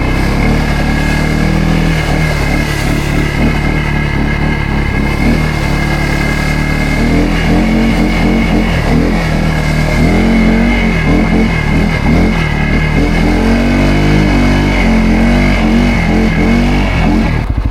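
CFMOTO CForce 600 ATV engine running under way off-road, its pitch rising and falling with the throttle, with a steady whine above it.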